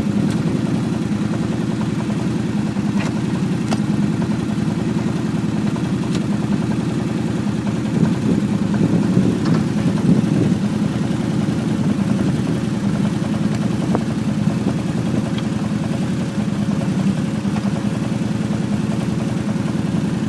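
Arctic Cat's engine running steadily while towing a lawn tractor, getting a little louder for a few seconds in the middle.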